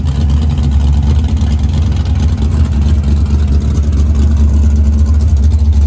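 A drag-racing car's engine running with a steady, deep low rumble.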